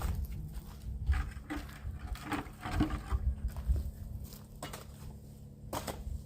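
Irregular scrapes and knocks of manual work, roughly one a second, over a low rumble.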